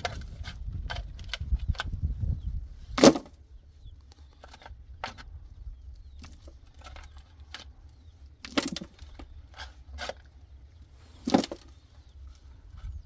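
Scattered clicks and knocks of things being handled, with three louder sharp knocks about three, eight and a half and eleven and a half seconds in, and a low rumble under the first few seconds.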